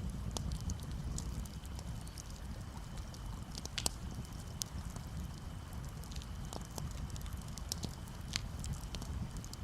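Campfire crackling, with scattered sharp pops and snaps, over a low steady rumble of gentle waves.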